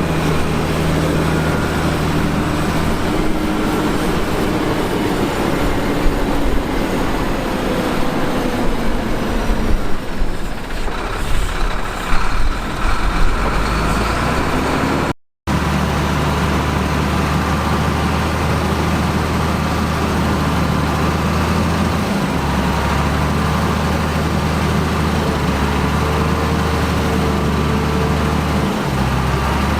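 Diesel engines of heavy earthmoving machines running steadily with a low hum, with a few irregular louder knocks in the middle. The sound cuts out completely for a moment about halfway.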